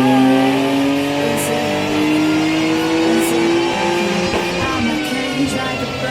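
Twin-turbo Mitsubishi FTO engine running on a dyno, its pitch climbing slowly through a pull for about four seconds before the note drops away.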